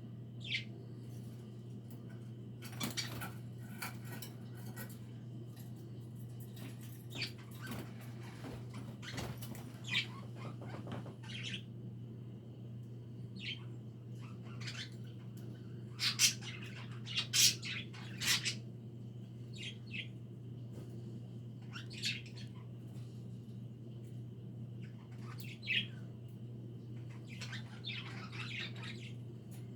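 A flock of pet budgerigars chirping in short, scattered calls, loudest in a burst about sixteen to eighteen seconds in. A steady low hum runs underneath.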